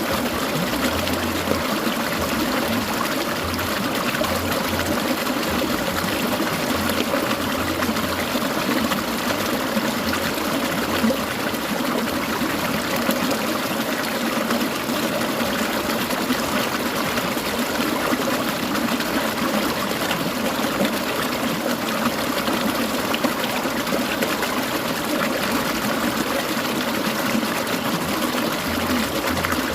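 Clear mountain stream, its water babbling and trickling steadily.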